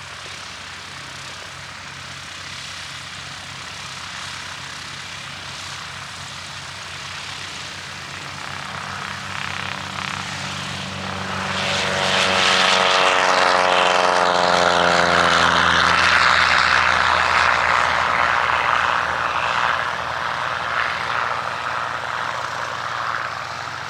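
Propeller airplane taking off at full power. The engine noise builds steadily, is loudest a little past halfway as the plane passes, then sweeps down in pitch and eases off as it climbs away.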